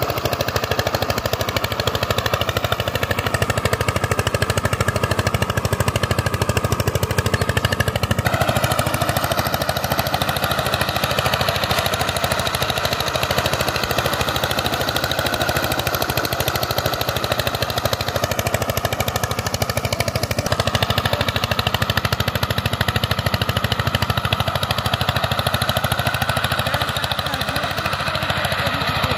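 Power tiller's diesel engine running with a rapid, steady knocking beat.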